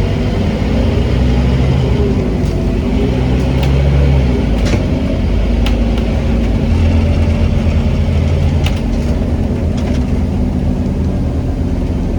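Scania N270UD OmniCity double-decker bus engine running under way, heard from inside the bus, with the engine note easing off about four and a half seconds in and building again a couple of seconds later. Short sharp rattles and clicks from the bus body come through at intervals.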